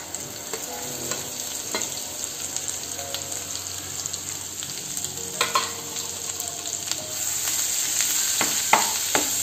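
Ground masala paste sizzling in hot oil in a nonstick pan. A steel spoon clicks and scrapes against the pan now and then. The sizzle grows louder about seven seconds in as the paste is stirred into the oil.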